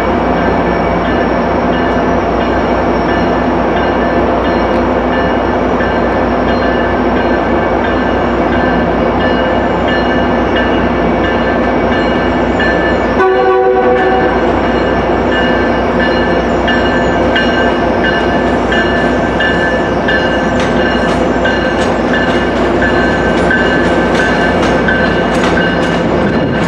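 MBTA commuter train, pushed by an MPI HSP46 diesel locomotive, rolling slowly into the station with a steady diesel drone and whining tones. A short horn blast sounds about halfway through, and the wheels click over rail joints more and more in the second half.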